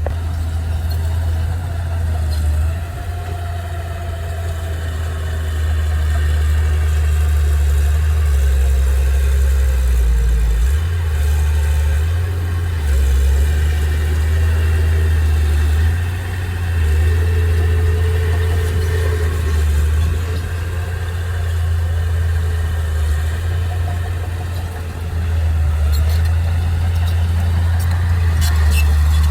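Engine of heavy earthmoving machinery running with a deep, steady low rumble that shifts in level now and then as the load changes, with a few sharp clicks near the end.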